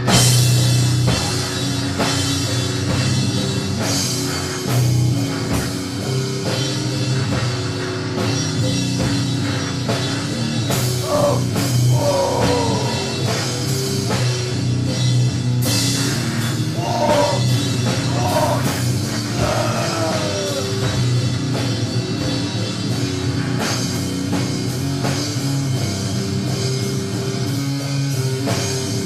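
Doom-metal band playing: a dense, sustained low distorted drone with slow drum hits throughout. Wavering, gliding squeals come in near the middle.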